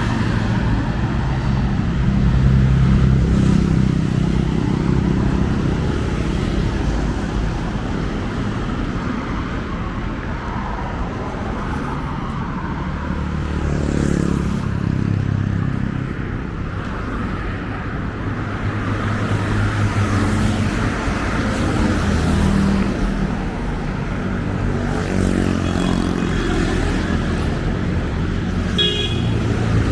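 Road traffic going by: a steady rumble of car engines and tyres that swells and fades as vehicles pass, with a few short high chirps near the end.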